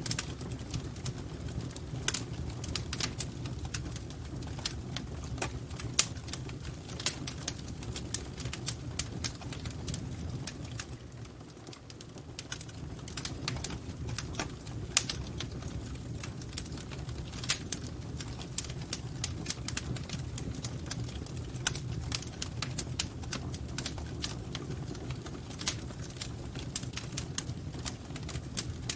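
Wood fire crackling and popping in irregular sharp clicks over a steady low rumble.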